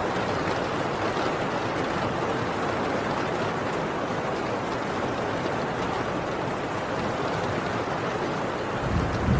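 Heavy rain drumming on a tin roof, a steady even hiss. Near the end a low rumble of distant thunder begins to swell.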